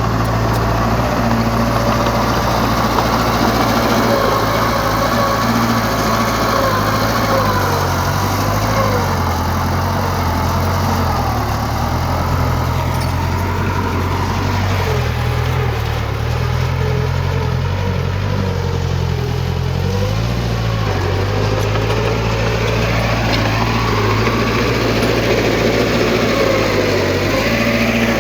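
Heavy diesel earthmoving machinery running continuously under changing load. The engine note sinks in the middle and climbs again toward the end.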